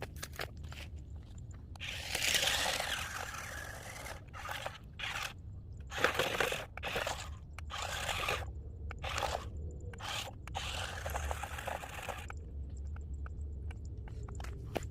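Pickup truck driving through deep water: a steady low engine rumble under repeated surges of splashing, rushing water, the loudest a little after the start and around the middle.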